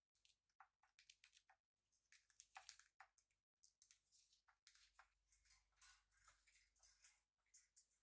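Faint, irregular run of short high-pitched crackles and clicks from pet budgies and a cockatiel, several a second, like beaks nibbling and scratching, with no clear chirping song.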